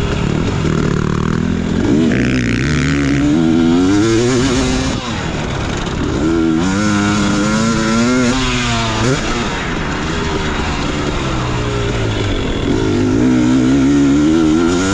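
Motocross bike engine being ridden hard: the revs climb under throttle, drop off, and climb again about four times, with a steadier stretch in the middle.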